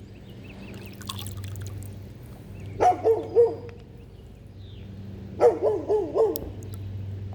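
A dog barking in two quick runs: three barks about three seconds in, then four more about five and a half seconds in.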